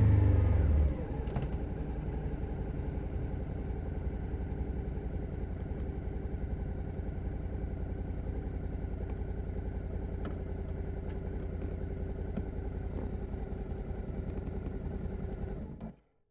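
2021 Suzuki SV 650's V-twin engine dropping off from higher revs to a steady idle about a second in, then switched off near the end, cutting out suddenly.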